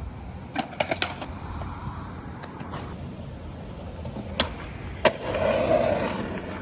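Skateboard rolling, with several quick clacks of the board about a second in, then two sharp cracks around four and a half and five seconds in, followed by a louder rush lasting about a second.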